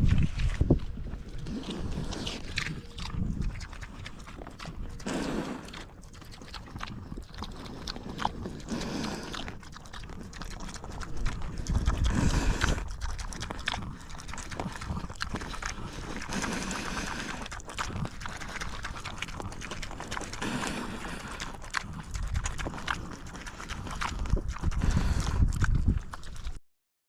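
Idaho Pasture Pigs and piglets eating grain feed: a busy, irregular stream of munching, crunching and knocks, with now and then a short low call. It cuts off abruptly near the end.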